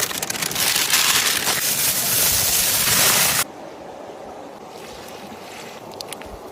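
A loud, even hiss that starts suddenly and cuts off abruptly after about three and a half seconds, followed by quieter background noise with a few faint clicks.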